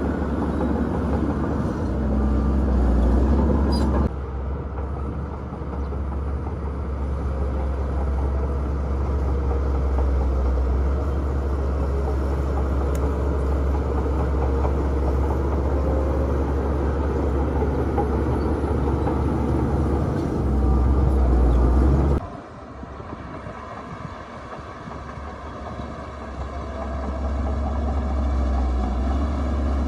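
Heavy diesel earthmoving machinery running with a steady low drone. The sound drops sharply about 4 seconds in and again about 22 seconds in, then builds back up.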